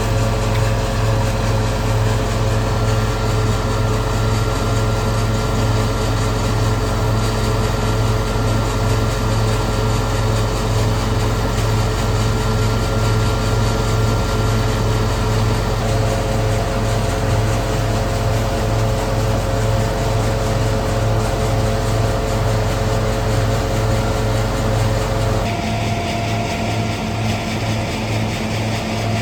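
Hazelnut threshing machine (patoz) running steadily with a low, pulsing engine drone; its sound shifts a little near the end.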